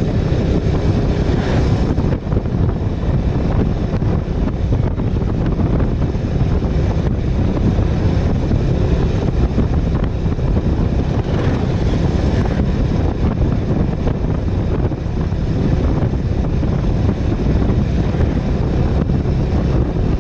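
Wind buffeting the rider's microphone over a Bajaj Avenger cruiser motorcycle's engine running steadily on the move.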